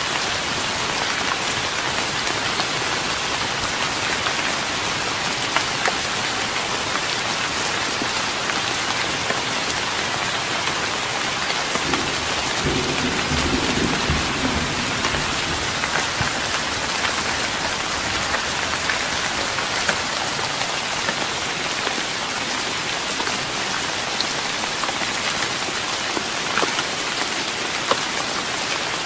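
Steady rain pattering on a wooden deck, with a brief low rumble about halfway through.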